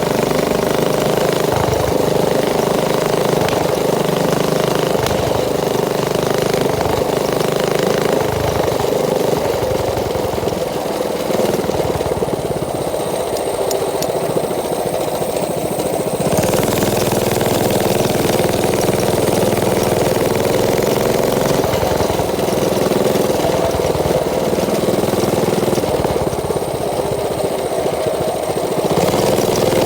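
Mini bike's small engine running steadily, its tone shifting slightly a few times.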